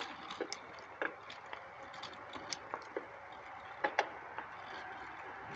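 Faint steady background hiss with a handful of light, irregular clicks and ticks from a bicycle being ridden.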